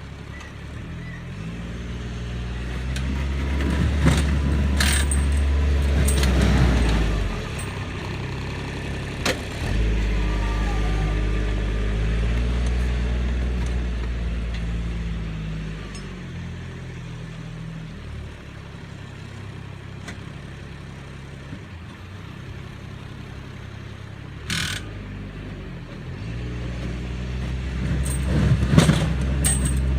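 Kubota engine working a snow plow, revving up under load three times and easing back in between, with a few sharp knocks and scrapes from the plow.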